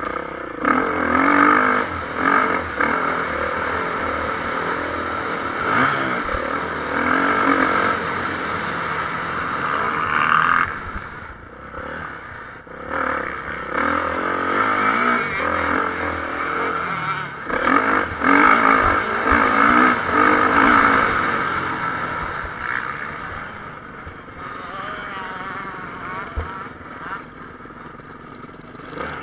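Motocross bikes racing on a dirt track, engines revving hard and backing off as they pass in several waves, growing quieter near the end.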